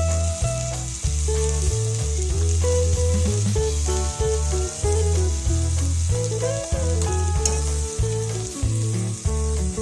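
Lamb sizzling as it grills, a steady frying hiss, under background music with a plodding bass line and a melody.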